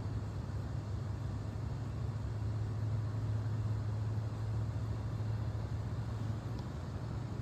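Steady low mechanical hum over a constant rumbling noise, unchanging throughout.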